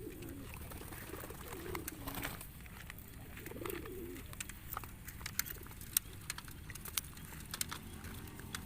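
Domestic pigeons cooing, low rolling calls coming three times in the first four seconds, with scattered light clicks afterwards.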